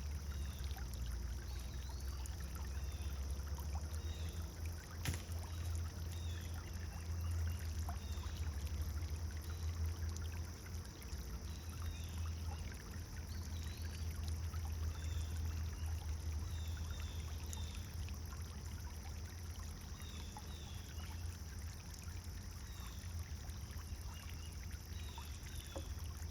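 Pond fountain water splashing and pouring steadily, with small birds chirping now and then over it.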